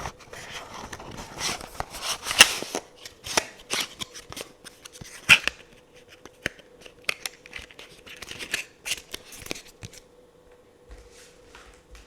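Tarot cards being handled: a string of sharp taps, flicks and short rustles, which thin out near the end.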